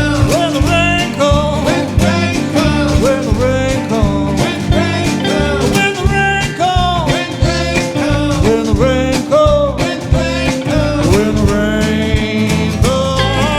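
A band playing a country-style song, probably an instrumental passage with no words picked up, with guitar and a lead line that slides between notes over a steady beat.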